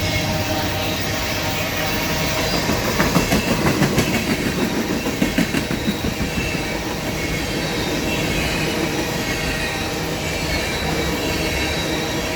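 Empty ethanol tank cars of a freight train rolling past: steel wheels on rail with a steady high singing tone, and a run of clicks from the wheels about 3 to 5 seconds in. The rails are really singing, which the railfan puts down to rail grinding done a week or two before.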